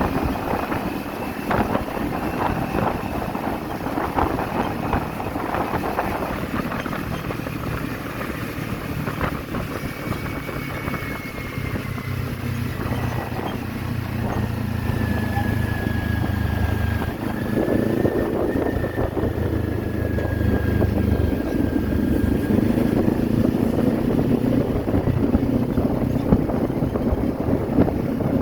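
Kawasaki Z400 parallel-twin motorcycle engine running under way, with wind noise rushing over the microphone. The engine note holds steady through the middle, and the whole sound gets louder in the second half.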